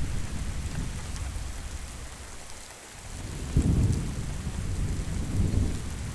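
Steady rain falling with rolling thunder. A deep rumble fades out over the first seconds, then a new peal breaks in sharply about three and a half seconds in and rumbles on, swelling again near the end.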